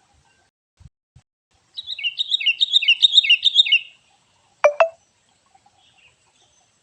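A small songbird singing a quick run of about six repeated chirping phrases, followed about a second later by two sharp clicks in quick succession.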